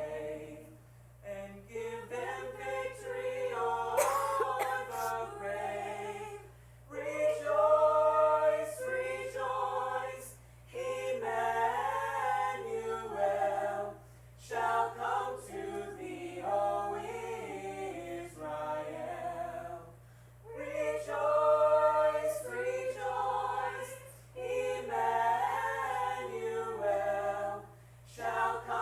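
A church choir singing a cappella in phrases separated by short breaks every few seconds, with a steady low hum underneath.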